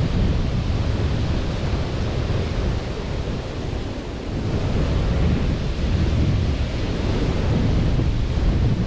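Steady roar of sea surf washing onto a beach, with wind buffeting the microphone and easing briefly midway.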